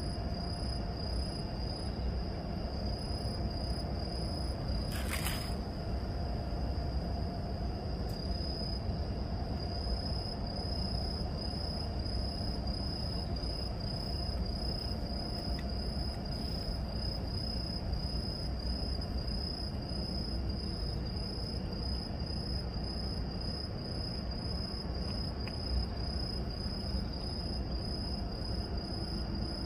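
Crickets chirping in a steady, fast-pulsing high trill, over a low steady background hum.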